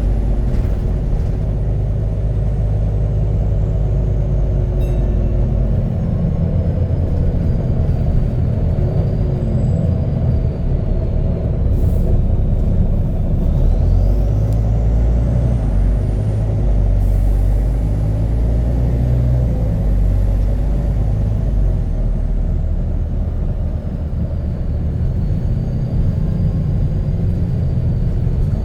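Double-decker bus diesel engine running with a loud, deep rumble from a burst exhaust, heard from on board, rising and easing as the bus pulls away and slows, with a faint whine gliding up and down.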